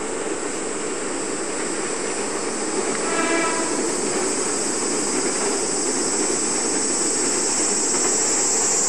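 Diesel limited express train running over the old Amarube steel trestle, a steady rumble of engines and wheels that slowly grows louder. A short horn blast sounds about three seconds in. The audio comes from an old videotape recording with a steady high hiss.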